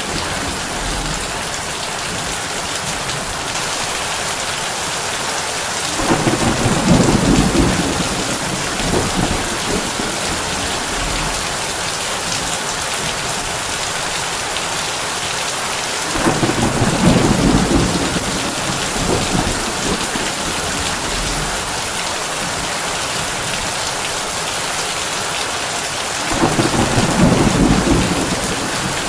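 Heavy rain on a tin roof, a steady hiss, with three low rolls of thunder about ten seconds apart, each lasting a couple of seconds.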